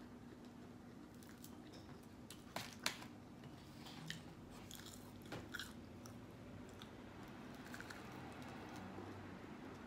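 A person chewing and biting into fried chicken, with a few sharp crunchy clicks, the loudest about three seconds in.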